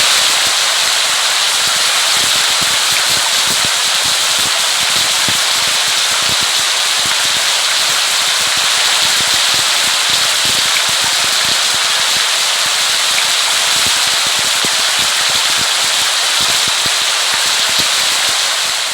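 Steady, dense rain, a hiss of many fine drops pattering. It fades out near the end.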